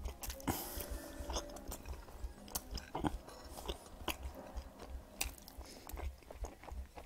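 A person chewing a mouthful of chicken mince with mayonnaise on naan bread, with irregular mouth clicks and smacks as food is eaten off the fingers.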